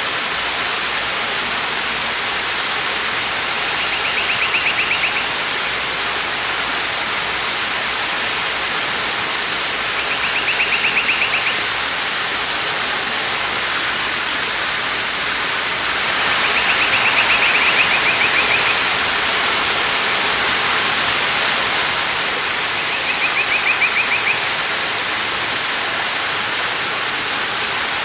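Waterfall rushing steadily, with a high, rapid trill from a bird or insect about every six seconds, four times.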